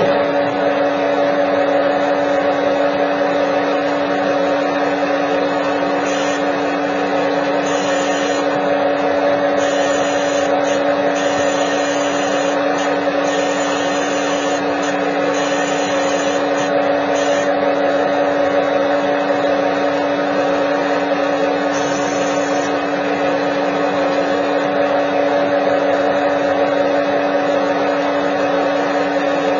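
Simulated CNC lathe spindle and cutting sound: a steady machine drone with a strong hum, starting abruptly and running unchanged.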